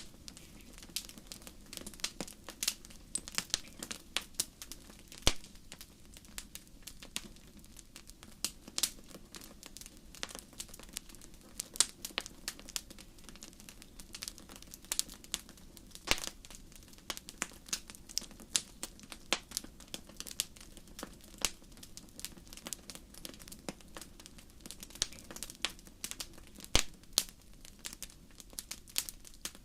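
Wood fire crackling: irregular sharp pops and snaps, several a second, over a steady low hum.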